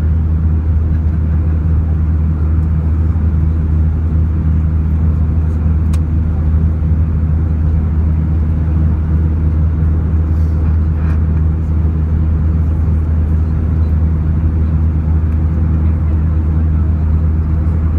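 Jet airliner cabin noise: the engines and airflow make a steady low drone with a constant hum, heard from inside the passenger cabin.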